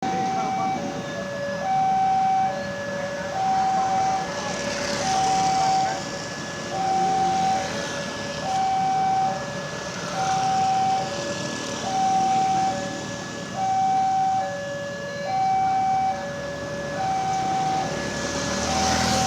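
Railway level-crossing warning alarm sounding a steady electronic two-tone hi-lo pattern, each tone held a little under a second, repeating without a break: the crossing is signalling that a train is approaching. Traffic noise swells behind it now and then.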